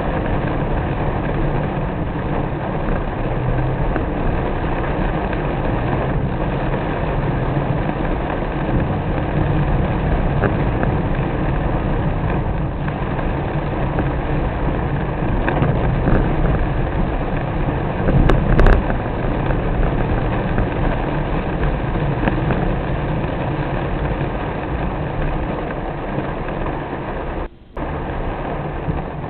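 Steady noise of a car driving in the rain: engine, tyres on the wet road and rain on the car blending into one even rush. There is a brief louder patch about eighteen seconds in and a split-second dropout near the end.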